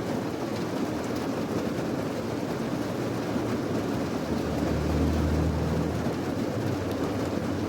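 Steady heavy rain, a dense even hiss with a deep body. About halfway through, a low rumble swells for a second or so, then fades back into the rain.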